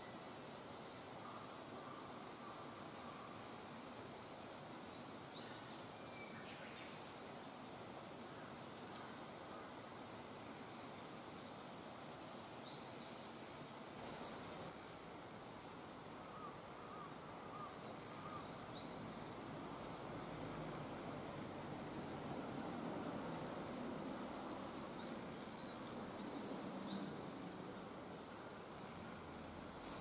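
A small bird calling over and over in quick high chirps, about two a second, above a faint outdoor background hiss that swells a little in the second half.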